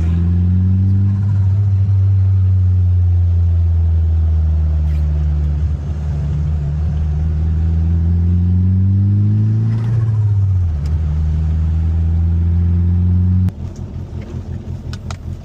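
1995 Mitsubishi Eclipse GSX's turbocharged 4G63 four-cylinder engine running under way, its pitch slowly rising, then falling about ten seconds in. Near the end it drops to a quieter, evenly pulsing idle.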